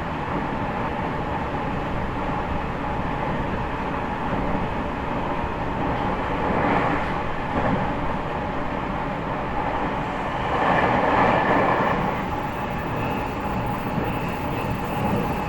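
Interior running sound of an E501 series electric train's motor car running at speed: a continuous rumble of wheels on track. The rumble swells briefly about seven seconds in and again, longer, around eleven seconds.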